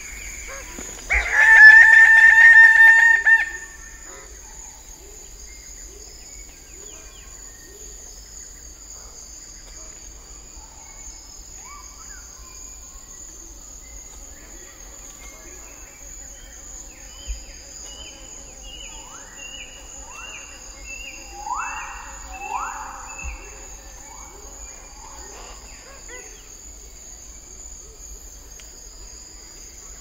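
Greater bird of paradise giving one loud, pulsing call of about two seconds near the start, then quieter calls of other birds later on. A steady high drone of insects runs underneath.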